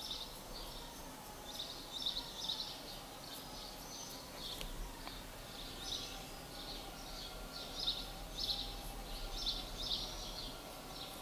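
Faint bird chirps, short clusters repeating every second or so, over low background noise and a steady low hum.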